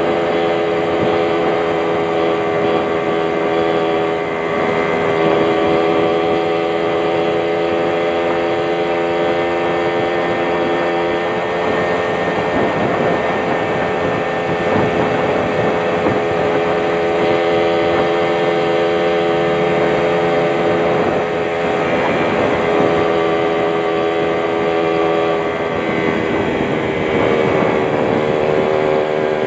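Yamaha Champ two-stroke motorcycle engine running steadily through a racing exhaust, its pitch shifting slightly a few times and rising briefly near the end.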